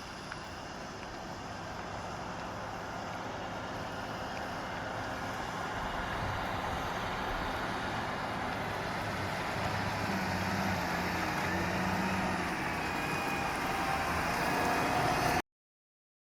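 A heavy vehicle's engine running, a steady rumble that grows gradually louder, then cuts off suddenly about a second before the end.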